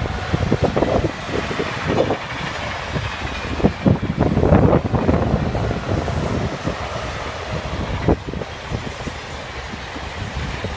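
TGV high-speed trainset passing on the tracks, its wheels rumbling over the rails with a few scattered knocks. Irregular gusts of wind buffet the microphone.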